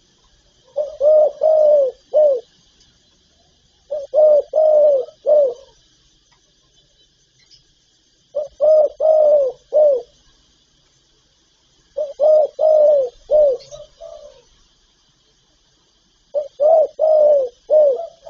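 Spotted dove cooing: five phrases of four or five coos each, repeated about every four seconds, the last cut off near the end.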